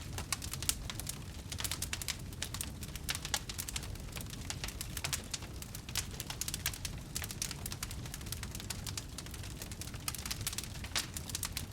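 Wood fire burning, with dense irregular crackles and pops over a steady low rumble of the flames.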